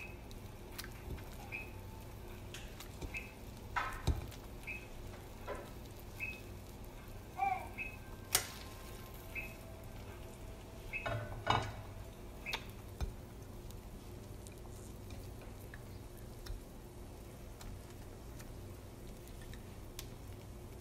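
Egg-soaked sandwich bread sizzling softly in oil in an electric skillet, with a few sharp knocks and taps as more slices are laid into the pan. A faint, regular high ticking, about one tick every two-thirds of a second, runs through the first several seconds.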